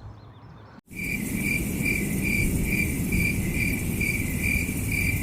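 A calling insect chirps steadily, a short high chirp about twice a second, over a loud low rumble.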